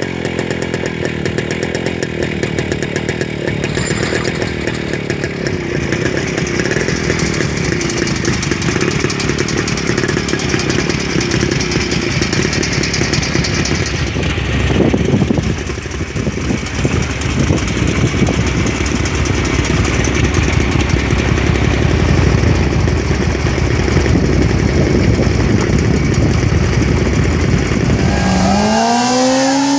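Small motorcycle engine running with a rough, buzzing note. Near the end an engine revs up, its pitch rising sharply.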